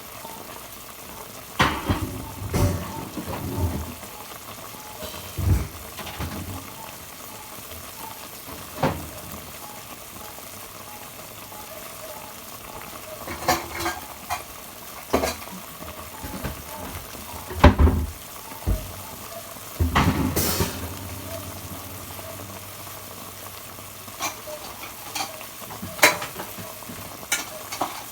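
Chicken adobo simmering and sizzling in a pot over a medium flame as its sauce reduces. Scattered short knocks and clinks sound over it, louder ones about two-thirds of the way through.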